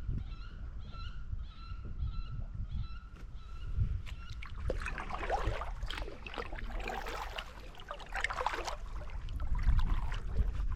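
Goose honking: a run of loud, harsh calls from about four and a half seconds in to about nine seconds, after fainter, evenly repeated high calls in the first few seconds.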